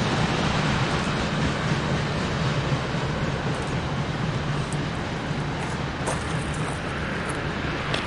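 Freight train of tank cars rolling away on the rails: a steady rumble of wheels on track, slowly fading as the train recedes.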